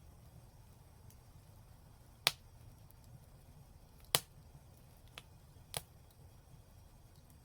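Fireplace fire crackling: four sharp pops, the two loudest about two and four seconds in, over a faint low rumble of the burning fire.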